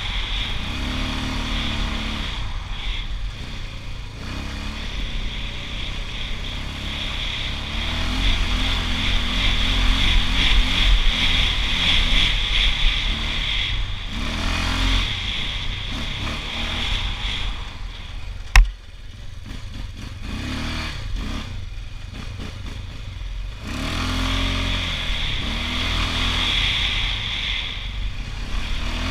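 Honda TRX680 ATV's single-cylinder engine running under way, its pitch rising and falling as the throttle is worked. A single sharp knock comes about two-thirds of the way through.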